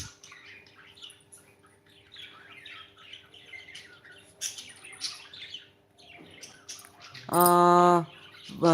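Pet budgies and cockatiels chirping softly: many short, scattered chirps and tweets in no steady rhythm.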